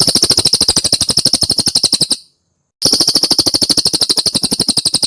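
Cililin bird song: a rapid, even trill of sharp high notes, about fifteen a second, in two bursts with a short pause just over two seconds in.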